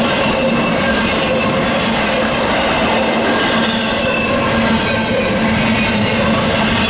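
Freight train rolling past: a loud, steady noise of wheels on rail, with a few thin, steady ringing tones running through it.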